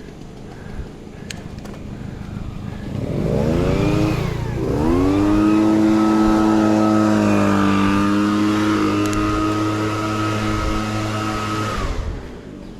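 Motor vehicle engine accelerating: its pitch climbs, drops sharply as it changes gear about four and a half seconds in, climbs again, then holds a steady drone. The sound cuts off suddenly near the end.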